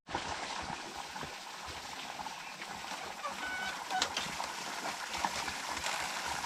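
Domestic ducks calling now and then over a steady noisy background with many small ticks.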